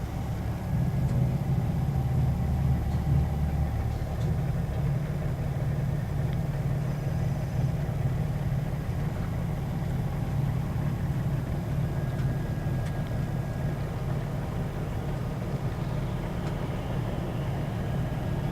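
Scania K113 bus's diesel engine running, a steady low rumble heard from inside the bus, heavier for the first few seconds and then settling to an even drone.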